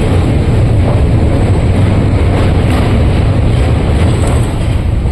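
Train running, a loud steady low rumble.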